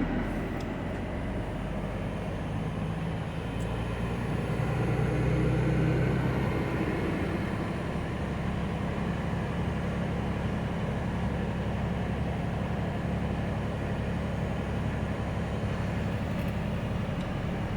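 A heavy vehicle's engine running steadily with a low drone, growing a little louder for a few seconds around five seconds in.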